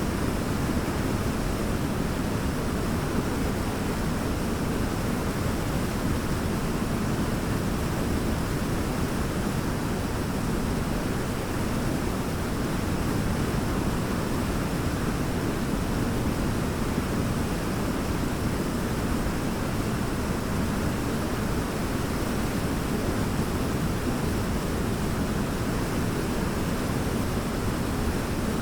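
Large waterfall roaring steadily: an even, deep rush of falling water with no breaks or changes.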